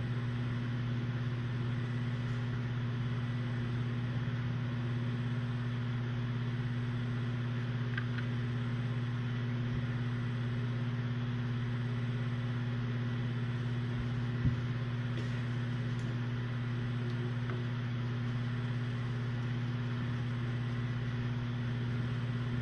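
Steady low machine hum in the room, unchanging throughout, with one faint click about fourteen and a half seconds in.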